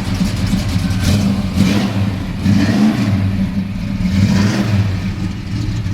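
1969 Chevelle's 454 big-block V8 with a solid-lifter roller cam, running with its revs rising and falling a few times.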